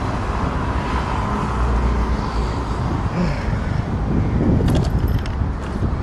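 Road traffic noise with a steady low rumble, heard from a vehicle on the road, with a few sharp clicks about five seconds in.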